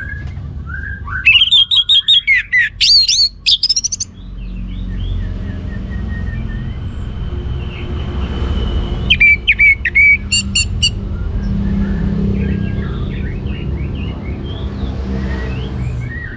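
Orange-headed thrush singing in loud runs of fast, varied whistled notes, about a second in and again around nine seconds, with fainter chirping in between over a steady low rumble.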